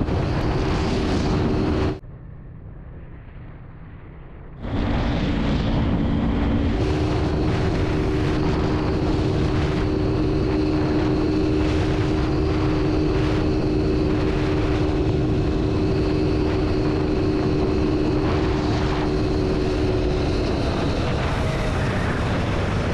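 Motorcycle engine running at a steady pace while riding, with heavy wind rumble on the microphone. The sound drops abruptly about two seconds in and comes back about two and a half seconds later.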